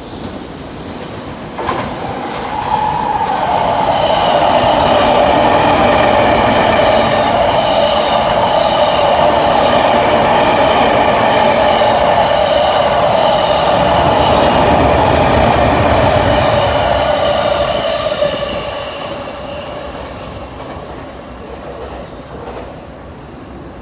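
Electric commuter train passing through at speed without stopping: a loud rushing of wheels on rail with regular clickety-clack over the rail joints and a high ringing squeal from the wheels. It swells about two seconds in, holds for some fifteen seconds, then fades as the train draws away.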